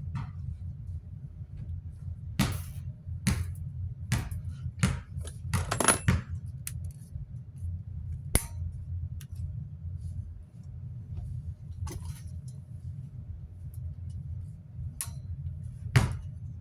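Scattered small clicks, clinks and knocks from handling the fan's metal wire guard while white nylon zip ties are fitted and trimmed where the guard rings have separated, over a steady low hum.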